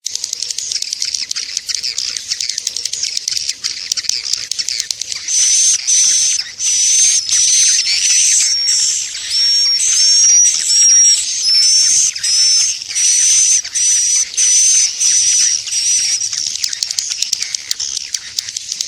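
Swiftlet lure call played back: dense, high-pitched swiftlet twittering, then from about five seconds in a run of loud, repeated high chirps, one to two a second, before the twittering takes over again near the end. It is the kind of call track swiftlet farmers play to draw the birds into a nesting house.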